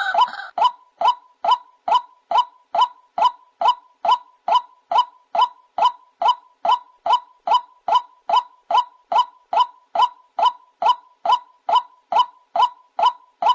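White-breasted waterhen calling: a long, even series of identical short notes, a little over two a second, after a harsher, noisier bout of calling that stops just after the start. A recorded call of the kind played as a lure to trap the bird.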